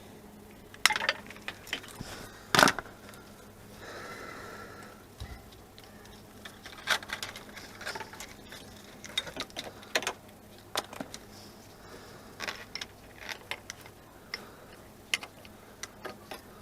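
Irregular metallic clicks and knocks of hand tools and parts being worked on the engine, with two louder knocks in the first three seconds.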